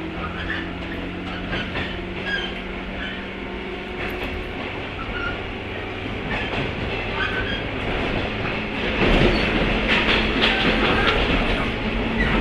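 JR 103-series motor car (MoHa 102) with MT55 traction motors running on the rails: a continuous rumble with wheel clicks and short wheel squeals. About nine seconds in, the running noise grows louder.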